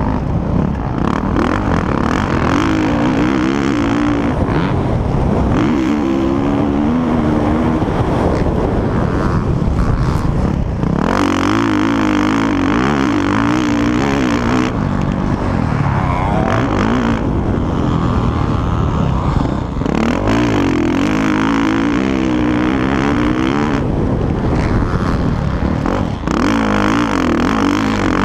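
Motocross bikes racing round the track, their engines revving up and dropping back over and over as riders work through the throttle, with several bikes heard at once at times.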